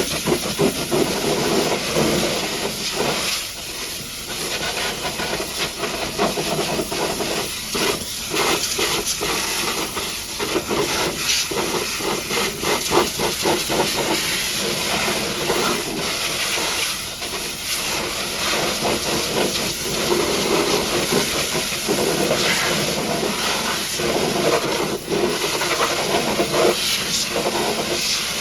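High-pressure washer jet spraying water onto a truck: a loud, steady hiss that swells and dips as the spray moves across the surfaces.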